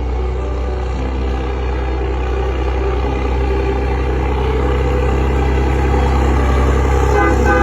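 Scania 113 truck's six-cylinder diesel engine running steadily, slowly growing louder.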